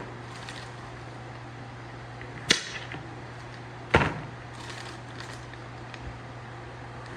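A kitchen knife striking a cutting board twice, about a second and a half apart, chopping lemons. A steady low hum runs underneath.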